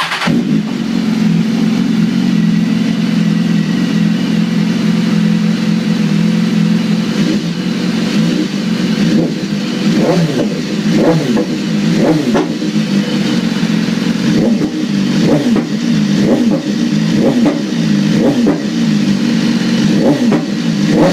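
2015 BMW S1000RR's inline-four engine through a Yoshimura titanium exhaust, starting up and idling steadily, then blipped repeatedly from about ten seconds in, each short rev rising and falling back to idle.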